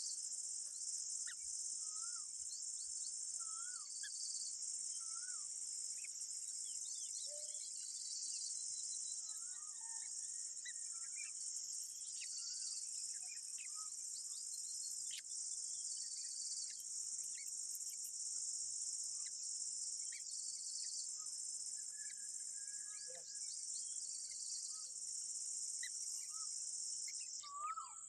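Steady, high-pitched drone of an insect chorus. Scattered short bird chirps and wavering whistled notes sound over it.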